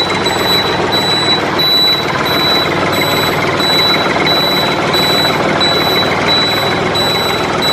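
A vehicle-style reversing alarm beeping about twice a second, a high electronic beep, over a steady, loud mechanical running noise.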